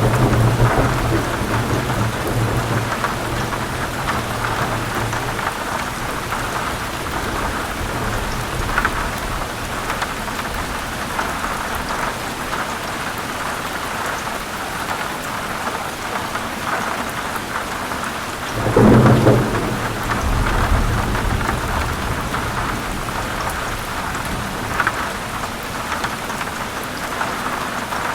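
Heavy rain falling steadily in a thunderstorm. Thunder rumbles low through the first few seconds, and about two-thirds of the way through a louder, sharper thunderclap breaks out and rolls off into a rumble.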